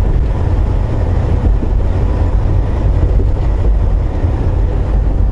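Steady low rumble inside the cab of a Volvo VNL860 semi truck under way: engine drone and road noise.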